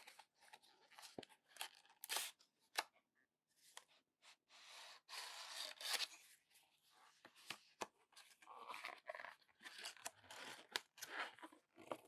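Packaging being handled: tearing and crinkling, with many small clicks in between.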